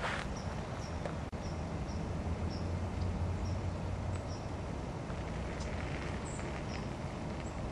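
A bird giving a series of short high chirps, about two a second, then a few scattered ones, over a steady low outdoor rumble.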